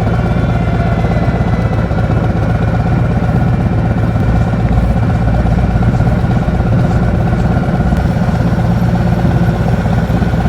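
Harley-Davidson V-twin motorcycle engine running steadily at low revs, with no rise or fall in pitch.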